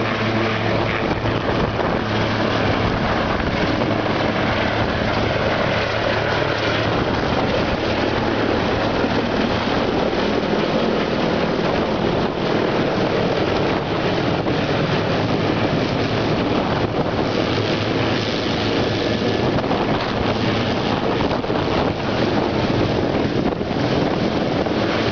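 Helicopter running steadily: a continuous loud rotor and engine noise with a steady low hum underneath.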